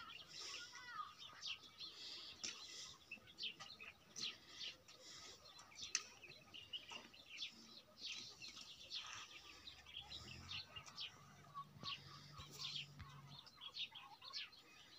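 Small birds chirping: a busy, faint chatter of many short, high chirps overlapping one another.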